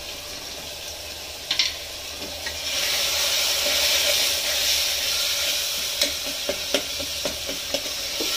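Onion, tomato and green masala frying in oil in an aluminium pressure cooker while a metal ladle stirs it. The sizzle swells about three seconds in. From about six seconds the ladle knocks and scrapes against the pot several times.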